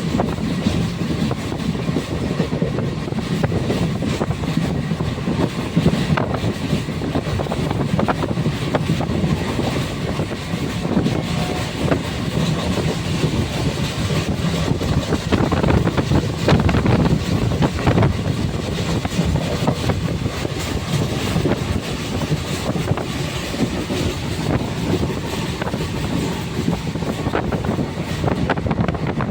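Passenger train running along the track: a steady rumble with the clack of wheels over rail joints, a louder knock now and then.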